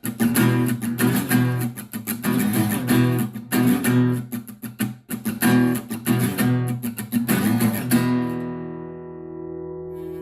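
Acoustic guitar music, chords strummed in a steady rhythm, ending on a chord left to ring out and fade from about eight seconds in.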